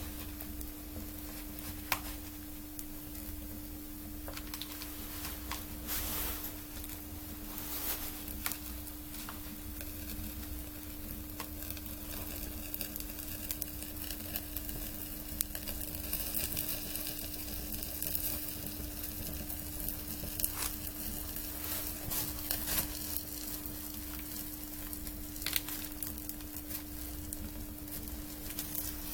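Wood fire crackling and sizzling in a freshly lit homemade garage stove, its firewood soaked in waste oil and brake fluid, with scattered sharp pops. A steady low hum runs underneath.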